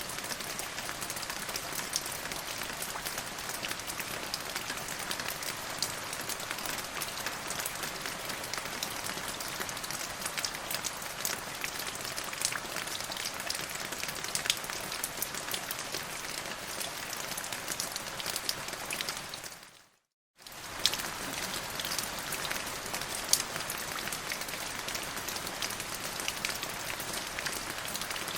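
Steady rain falling on a surface, a dense even hiss with many sharp individual drop ticks. About two-thirds of the way through it fades out, drops to silence for about half a second, then returns at the same level.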